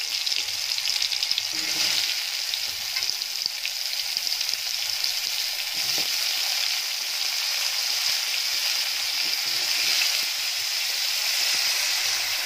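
Potato chunks frying in hot oil in a kadai: a steady, even sizzle throughout.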